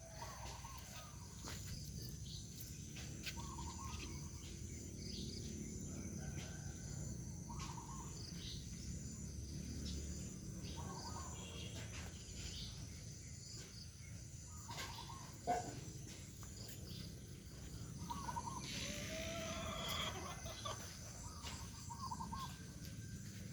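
Chickens giving short clucking calls about every two seconds over a steady high insect drone, with one sharp knock about two-thirds of the way through.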